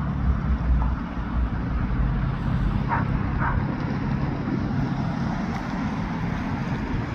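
Diesel locomotives idling with a steady low rumble. Two short high chirps come about three seconds in.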